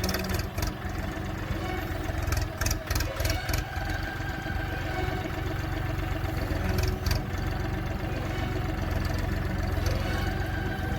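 UHI tractor engine running steadily at idle, with a few sharp clanks in the first few seconds and another about seven seconds in.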